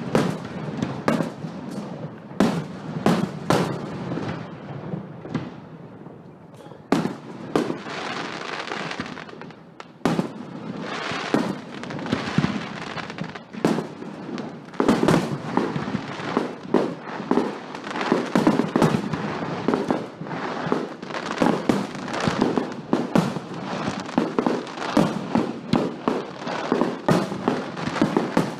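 Fireworks display: a rapid barrage of bangs with crackling between them. It thins out briefly about five seconds in, then picks up again and grows denser in the second half.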